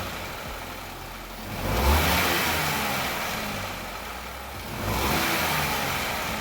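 Hyundai HB20's 1.0-litre three-cylinder engine, freshly rebuilt, running and revved up twice, each time settling back toward idle. The heavy knock from worn piston pins is gone.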